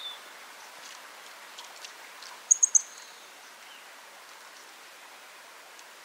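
Three quick, very high chirps from a small songbird in rapid succession about two and a half seconds in, over a faint steady background hiss.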